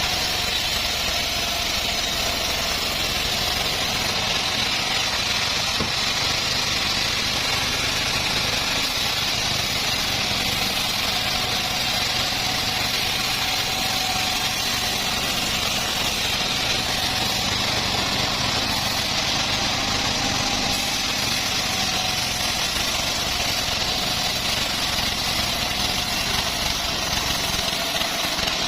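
Engine-driven homemade bandsaw sawmill running steadily, a constant engine sound with a thin high whine over it.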